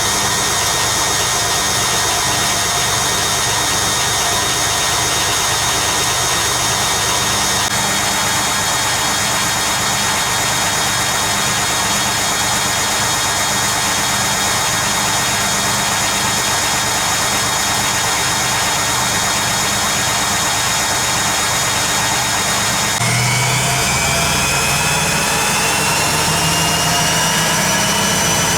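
Hoover Keymatic A3112 washing machine spinning steadily on the 500 rpm first phase of its final spin. About 23 seconds in, the motor steps up and the drum speeds up toward 800 rpm with a rising whine.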